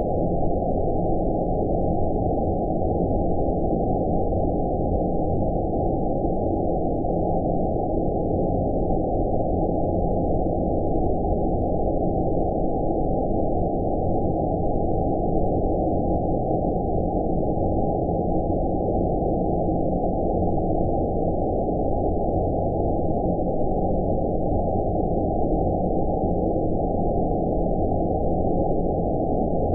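Steady, unbroken low, dull noise with nothing above about 1 kHz: a 'space noise' sleep sound, white noise filtered down to a deep hiss.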